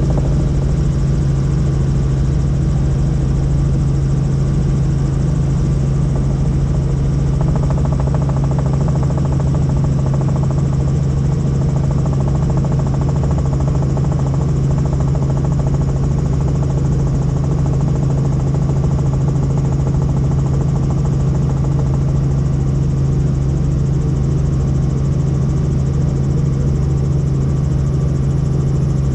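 Helicopter in flight, its engine and rotor making a loud, steady drone with a strong low hum that does not change.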